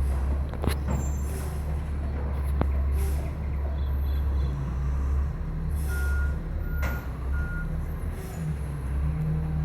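Front-load garbage truck's diesel engine running with a steady low drone, broken by short hisses of air. Three short beeps sound near the end.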